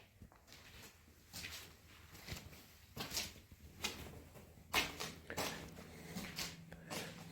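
Scattered short knocks and scrapes of bricks and tools being handled during brick masonry work, about eight or nine in all, the loudest about five seconds in. A faint low hum sets in about five and a half seconds in.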